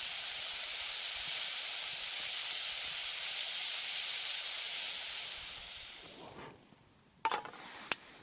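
Food sizzling in a small frying pan: a steady hiss that dies away about six seconds in, followed by two sharp clicks.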